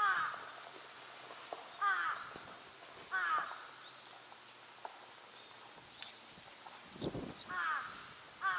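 A crow cawing: five short, harsh calls, three spaced a second or two apart and two more close together near the end. A dull thump sounds about seven seconds in.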